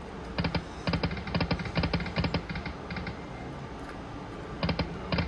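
Golden Century Lightning Cash slot machine spinning its reels: runs of rapid, even clicks, pausing for about a second past the middle and starting again near the end.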